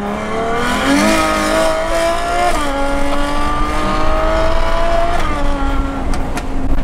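Ferrari 812 Superfast's 6.5-litre V12 at full throttle, revs climbing hard and dropping sharply twice, at about two and a half and five seconds, as it shifts up, heard from the cabin with the windows down.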